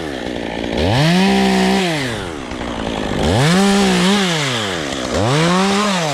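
Chainsaw revved up three times, each time climbing in pitch, holding near full speed for about a second, then dropping back toward idle.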